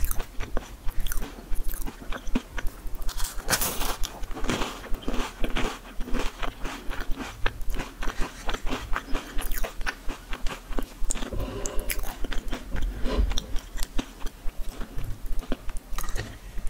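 Close-miked chewing of crunchy seeds and nuts in yogurt: a dense, irregular run of small crunches and clicks.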